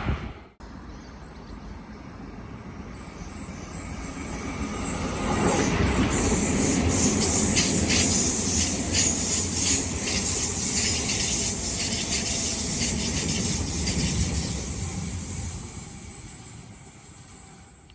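A train running past on the rails, growing louder, then fading, with wheels clicking over rail joints and a high-pitched wheel squeal at its loudest.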